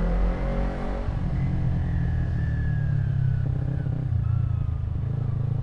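Kawasaki Ninja 250R's parallel-twin engine pulling away slowly in first gear. The engine note eases down over a few seconds and then lifts briefly again, over a steady low rumble.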